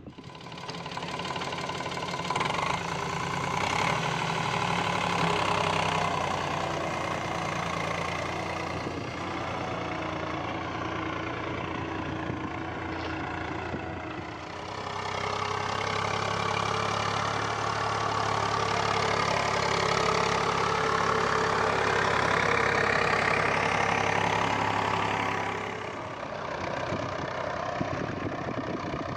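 Eicher 485 tractor's diesel engine running steadily, louder in two long stretches with a brief dip about halfway through, and easing off near the end.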